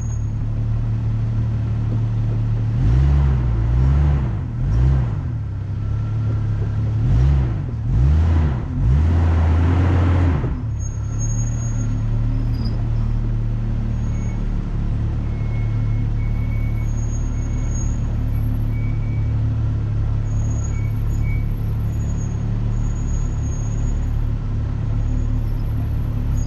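Off-road vehicle engine revving up and down in several bursts during the first ten seconds, then running steadily at low revs.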